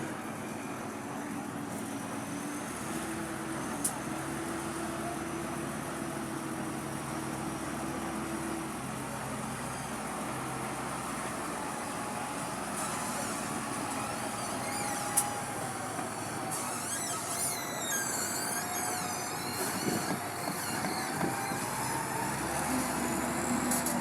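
A truck's engine running steadily under a constant noisy hum, with a few sharp clicks and some brief wavering high-pitched sounds in the second half.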